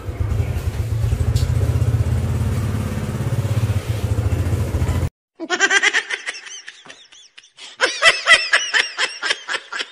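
Small underbone motorcycle engine idling just after being kick-started, cutting off abruptly about five seconds in. Then an edited-in laughing sound effect follows in several bursts.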